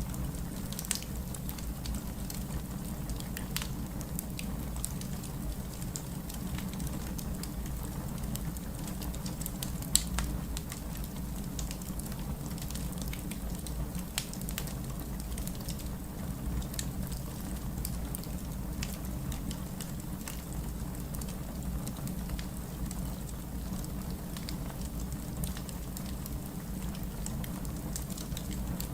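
Wood fire crackling, with scattered sharp pops and one louder snap about ten seconds in, over a steady low rumble of rain.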